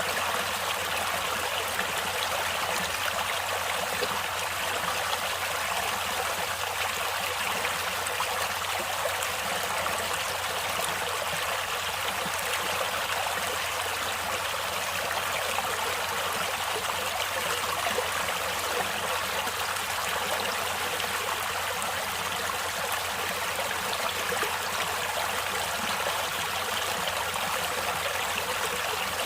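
Water in a stream or river flowing steadily: an even, unbroken rush, mostly in the middle and high pitches with little deep rumble.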